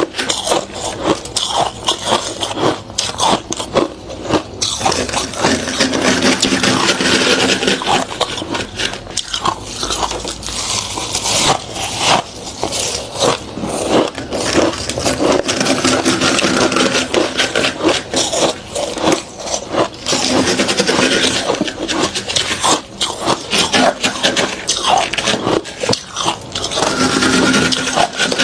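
Thick freezer frost being scraped, a dense continuous run of scraping with many crisp little cracks and crunches.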